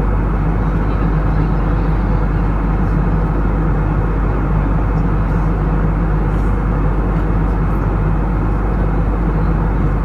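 Steady airliner cabin noise: an even rumble of the jet engines and airflow, heard from inside the cabin.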